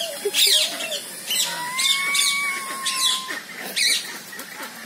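Birds chirping: about half a dozen short, sharp calls, with one long, nearly level whistled note in the middle lasting about a second and a half.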